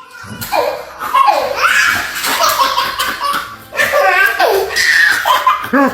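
Loud, high-pitched human laughter in repeated bouts, starting right after a cut.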